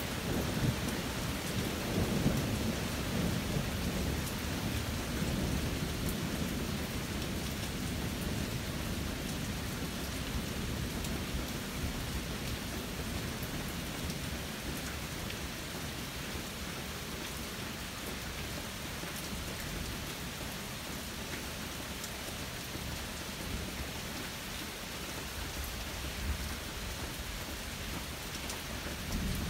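Steady rain falling on the ground and trees, with a low rumble of thunder during the first several seconds that dies away, leaving the even sound of the rain.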